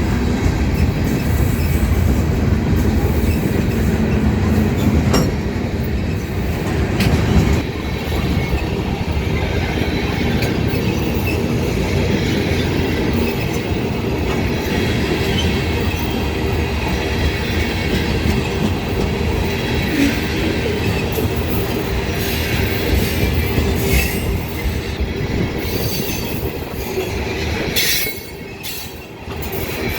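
Ferromex freight train rolling past, its steel wheels running on the rails in a steady loud rumble with scattered clicks, dipping briefly in loudness near the end.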